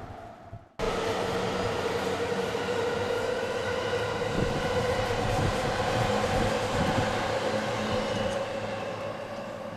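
JR Chuo Line electric train running past on the elevated track: a steady rumble of wheels and motors with a held humming tone. It starts abruptly about a second in and fades near the end.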